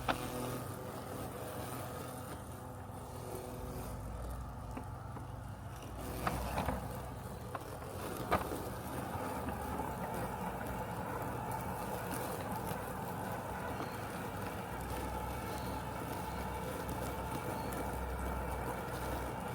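Robotic lawn mower running with a steady mechanical hum. A few short clicks or knocks come about six and eight seconds in.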